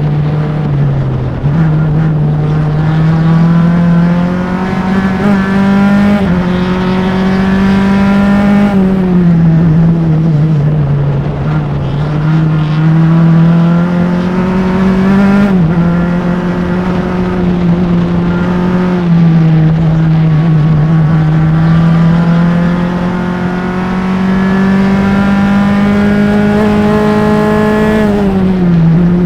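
Single-seater race car's engine heard close up from engine-mounted microphones, under hard acceleration on track. Its note climbs steadily and drops suddenly at each gear change, about half a dozen times, and sags twice where the car slows for corners.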